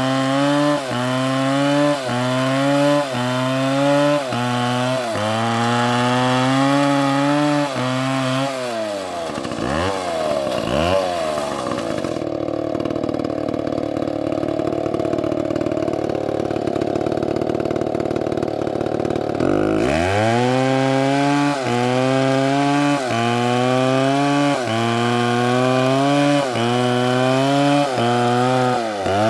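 STIHL chainsaw cutting wood, its engine note dipping about once a second as the chain bites into the cut. In the middle it eases off with a couple of swoops in pitch, runs at a lower steady note for several seconds, then goes back to cutting.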